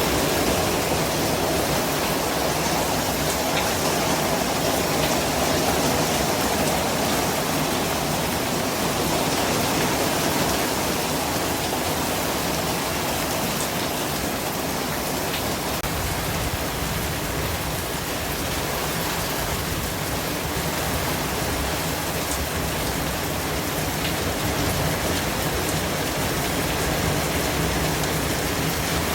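Steady white-noise hiss, spread evenly from low to high pitches and unchanging throughout.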